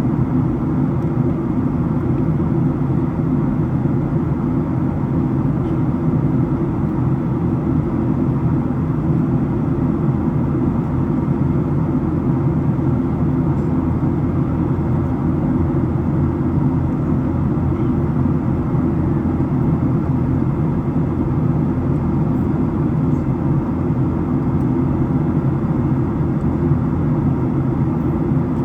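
Steady low drone of a Boeing 737-700's CFM56-7B engines heard from inside the passenger cabin.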